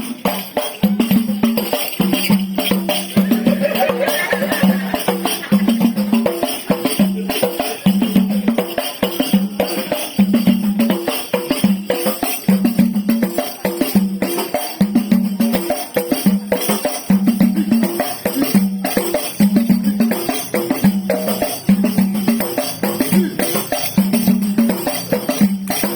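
Percussion music of hand drums and jingling tambourines, with a steady low drum stroke about once a second under busy jingles and clatter.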